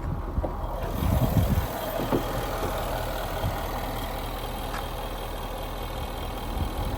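2012 Jaguar XKR's supercharged 5.0-litre V8 running steadily at idle, with a brief louder moment about a second in.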